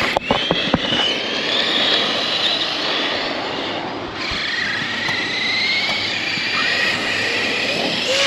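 Brushless electric motor of a large RC car whining as it drives, the pitch rising and falling with throttle, over a rushing noise of the running gear, with a few sharp clicks in the first second.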